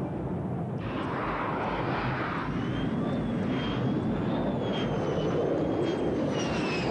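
Military aircraft engine running, a steady rumble with a high whine that wavers and sinks a little near the end.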